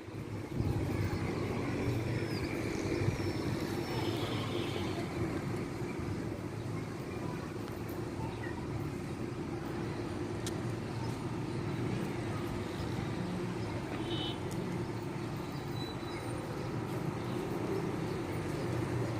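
Steady low rumble of city traffic, with a couple of faint high chirps.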